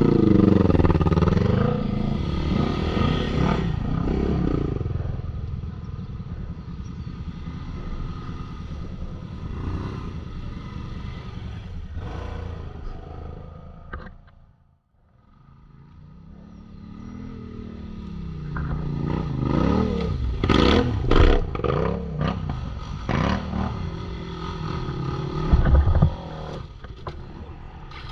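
ATV engines revving on a hill climb: the engine note rises and falls with the throttle, fades almost to nothing about halfway through, then builds again with several sharp revs in the second half.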